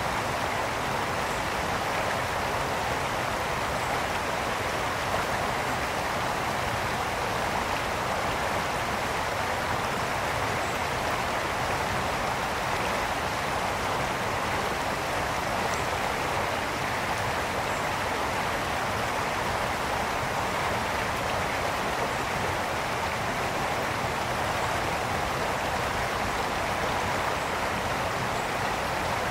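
Mountain brook flowing and splashing over rocks: a steady rushing of water.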